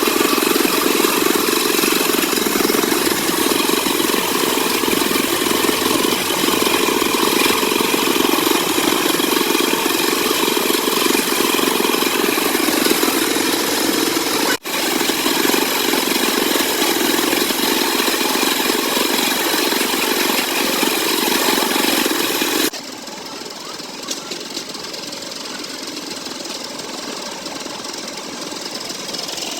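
An engine running steadily, cutting out for an instant about halfway through. Near the end it changes abruptly to a quieter, duller running sound.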